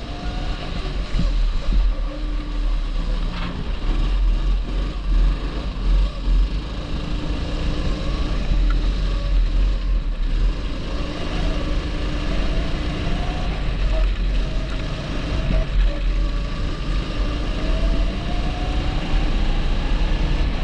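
A 270cc rental go-kart engine running under load. Its pitch rises as it accelerates and falls as it slows for corners, over a heavy low rumble.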